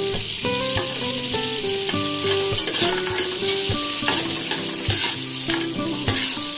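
Sliced onion and garlic sizzling in hot oil in an aluminium pot while a metal ladle stirs them. Background music with a simple melody runs along with it.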